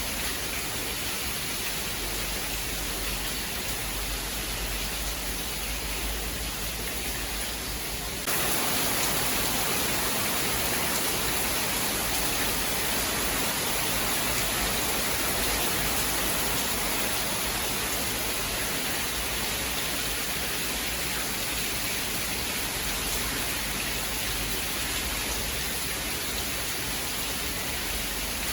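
Steady heavy rain hiss. About eight seconds in it jumps abruptly louder and brighter, like a cut to a different rain recording.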